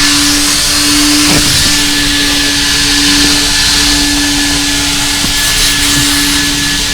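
Vacuum cleaner running steadily as it cleans out a car's interior, a constant motor hum under a rushing hiss of suction.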